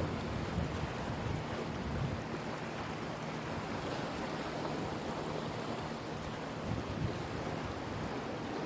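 Sea waves washing at a harbour shore, a continuous rushing with small swells in level, over a steady low hum.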